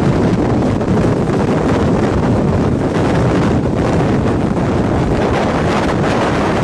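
Strong wind rushing over the microphone, a loud steady rumble.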